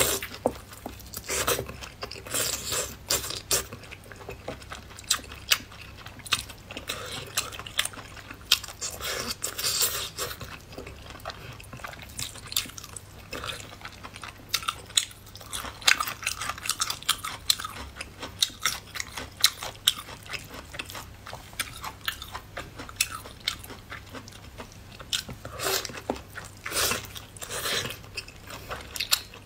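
Close-miked biting and chewing of braised lamb intestine rolls: many irregular sharp clicks and smacks from the mouth, over a faint steady low hum.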